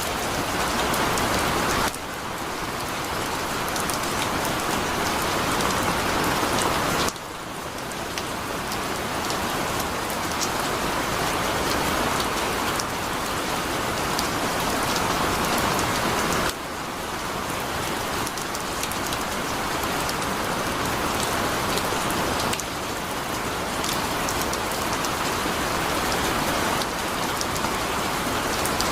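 Heavy rain pouring steadily: a dense hiss of falling water with fine patters of individual drops. The level drops suddenly several times and then slowly builds back up.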